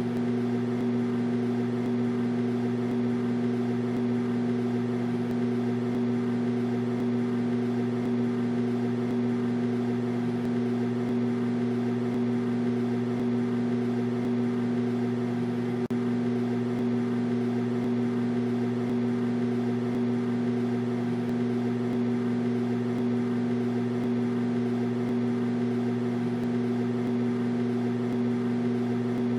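Microwave oven running with a steady, unchanging hum and a faint tick about halfway through.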